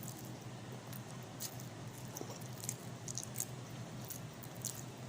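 A person chewing a mouthful of Indomie instant noodles, with scattered short, wet mouth clicks.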